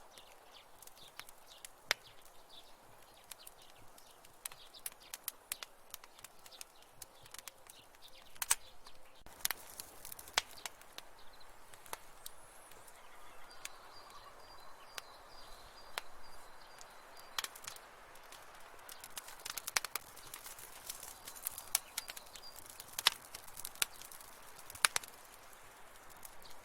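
Wood fire crackling in a fireplace: irregular sharp pops and snaps, some much louder than others, over a soft steady hiss of burning.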